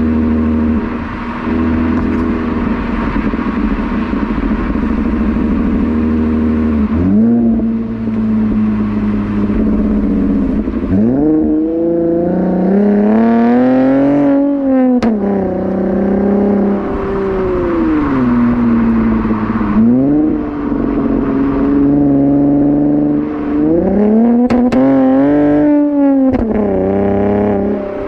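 Holden VE Commodore SV6's 3.6-litre V6 through J-Pipe rear mufflers, running at a steady note for about seven seconds. It then accelerates several times, the pitch climbing and dropping back between pulls.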